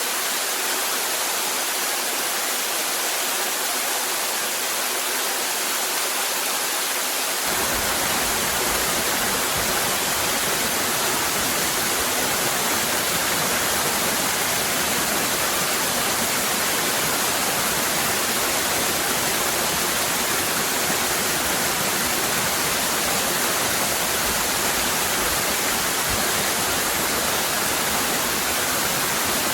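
Waterfall cascading: a steady rush of falling water. About seven seconds in the sound abruptly turns fuller and deeper as a low rumble joins it, then stays steady.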